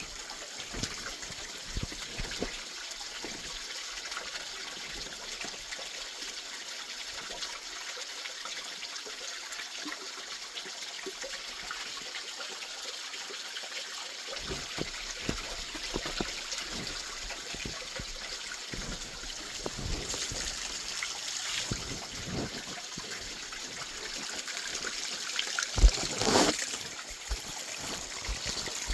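Water trickling and splashing over the rocks of a low-running waterfall. Scattered knocks and rubbing from the camera carried in a pocket, the loudest a thump near the end.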